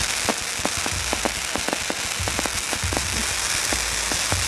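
New Year fireworks display: a continuous run of sharp cracks, several a second, over a steady crackling hiss, with low booms recurring about once a second.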